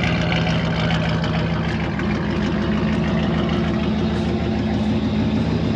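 Mud truck's engine idling steadily with an even low hum, the truck stopped with one tire sunk out of sight in the mud.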